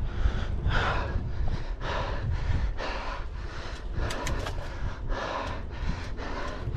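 A cyclist breathing hard while pedalling uphill, rhythmic rapid breaths, over a steady low rumble.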